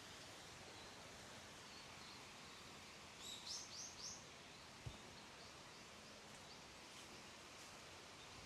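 Faint steady wash of a small forest creek, with a bird giving a quick run of four short high chirps about three seconds in. A single soft low thump follows about a second later.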